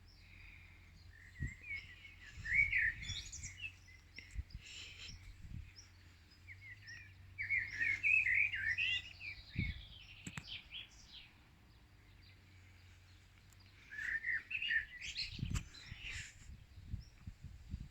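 A songbird singing in three bursts of quick, varied chirping phrases a few seconds apart, with a few soft low thumps in between.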